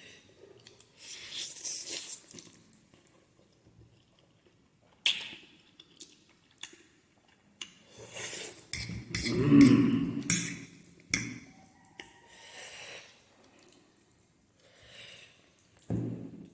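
Spicy Korean noodles being eaten close to the microphone: wet slurping and chewing in short bursts, with sharp clicks of utensils against the bowl. The longest and loudest burst comes a little past the middle.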